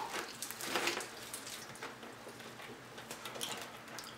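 Eating sounds from fried chicken wings being chewed and pulled apart: irregular wet mouth clicks and crackles.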